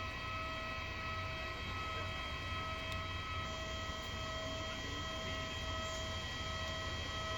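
Steady running noise of a moving vehicle heard from inside: a low rumble under an unchanging whine made of several held tones.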